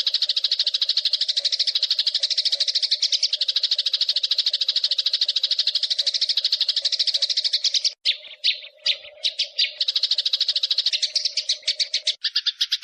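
Eurasian tree sparrows giving fighting calls: a fast, continuous rolling chatter of chirps, which breaks up briefly about two-thirds of the way in and then carries on.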